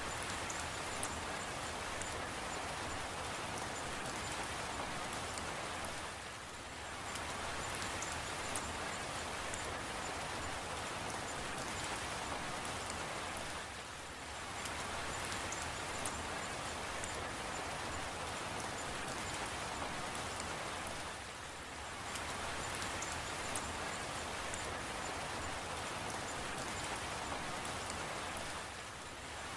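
Steady rain falling, with scattered faint drip ticks. The rain briefly dips in level about every seven and a half seconds.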